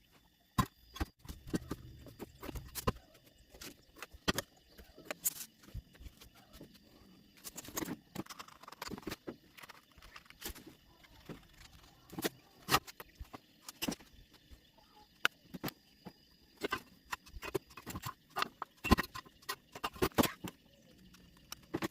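Irregular light taps, clicks and a few sharper knocks from working thin square steel tubing by hand, with no steady tool running.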